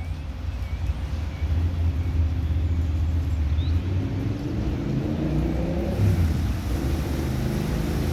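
WashTec SoftCare Pro rollover car wash machine running, a steady low rumble with faint rising motor tones about halfway through.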